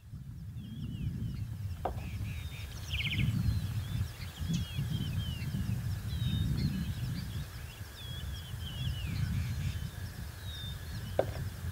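Birds chirping and twittering, many short rising and falling calls one after another, over a low uneven rumble that swells and fades.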